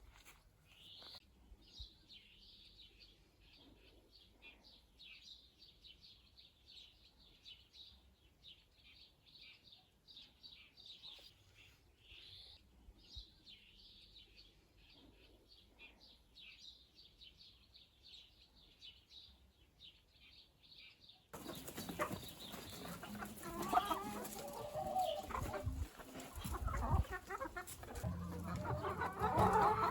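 Faint songbirds chirping in quick, dense runs. About two-thirds of the way through, the sound cuts to louder chickens clucking.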